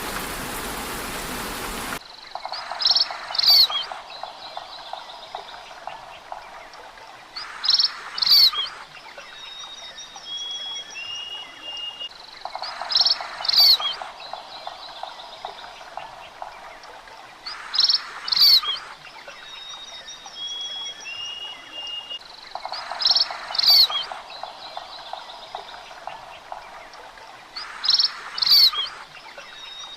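Rain hiss for about two seconds, cutting off suddenly. Then a looped wildlife recording repeats about every five seconds: short, sharp bird calls over a fast, low pulsing trill, with thin whistled notes in between.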